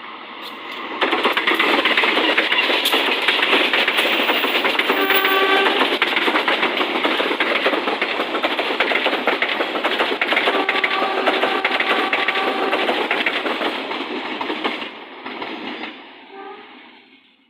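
A train passing close by: a loud, steady rush of wheels on rails, with the locomotive's horn sounded twice, a short blast about five seconds in and a longer one from about ten to thirteen seconds. The noise drops away near the end.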